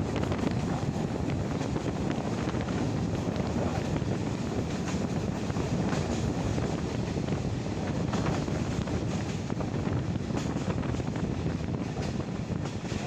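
Steady rumble of a moving passenger train's carriage on the track, heard through an open window, with wind buffeting the microphone and faint irregular ticks from the wheels and running gear.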